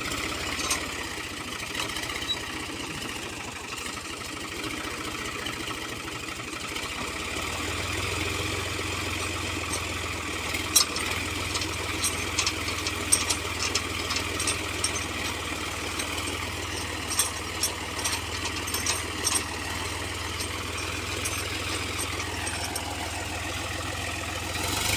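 Tractor diesel engine running steadily. Its note shifts and settles into a stronger, steadier hum about a third of the way in. A scatter of short, sharp clicks and knocks comes through the middle stretch.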